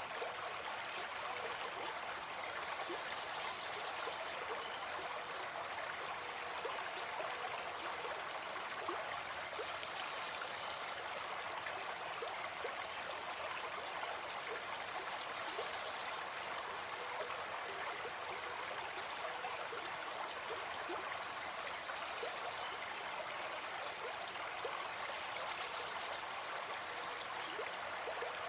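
Gentle forest stream flowing steadily, water rushing and trickling over stones in an even, unbroken wash.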